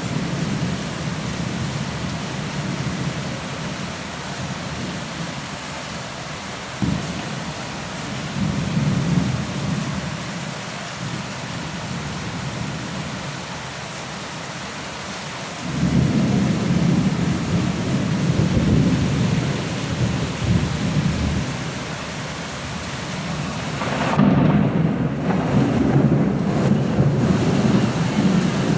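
Steady rain falling, with low rumbles swelling and fading three times, around a third of the way in, from about halfway and again near the end.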